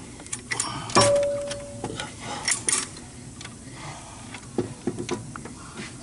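Metal tools and engine parts being handled: uneven clicks and knocks, with one sharp metallic clank about a second in that rings briefly.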